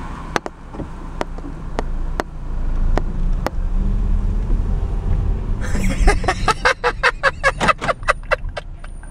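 Car engine running low and steady, heard from inside the car as it rolls slowly, with a few sharp clicks in the first few seconds. From about six seconds in, a fast run of short, sharp sounds, about five a second, rides over the engine.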